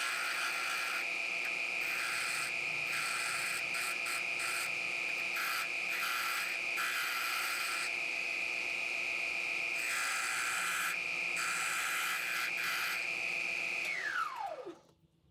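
Electric woodworking machine running with a steady high-pitched whine and intermittent hissing from work against it, then switched off about fourteen seconds in, its whine falling in pitch as it spins down to a stop.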